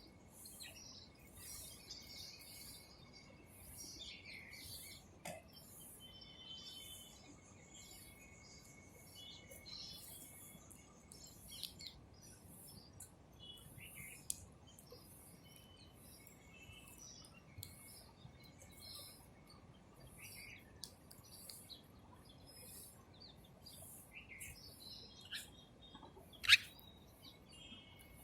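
Small birds chirping and twittering in short scattered calls over a faint, high-pitched pulse that repeats about once a second. One sharp, loud chirp comes near the end.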